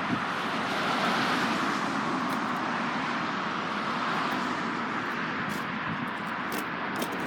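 Steady rushing background noise of road traffic, even and unbroken, with a short click at the very end.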